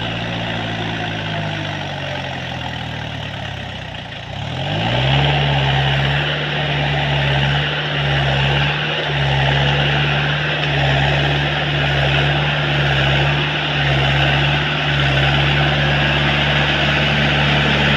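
Tractor diesel engine slowing over the first few seconds, then revved up sharply about four seconds in and held at high revs, with a few brief dips.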